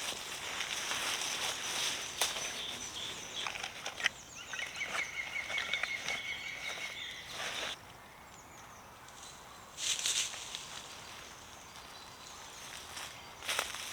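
Woodland birdsong, with one bird giving a rapid run of short repeated notes a few seconds in, over rustling and handling noises. Two short, louder rustles come in the second half.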